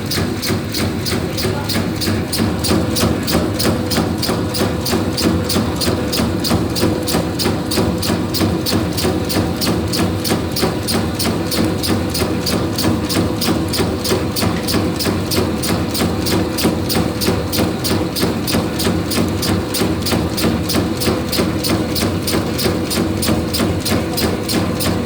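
Bakso (meatball) forming machine running: a steady motor hum with a rapid, even clacking several times a second as the mechanism turns out balls.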